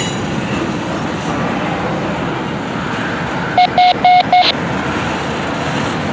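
Double-stack container train rolling past on well cars, a steady continuous rumble of wheels on rail. About halfway through, four short electronic beeps of one fixed pitch sound in quick succession.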